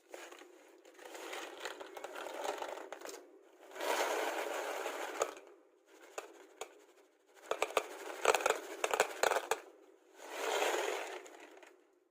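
Bursts of rustling and scraping, with a quick run of sharp clicks and knocks about eight to nine and a half seconds in.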